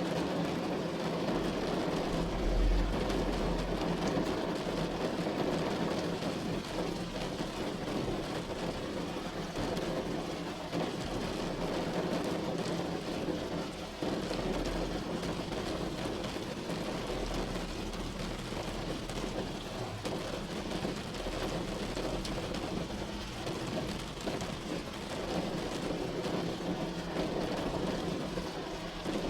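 Steady heavy rain drumming on a roof, a dense even patter, with a deep low rumble rising under it a few times.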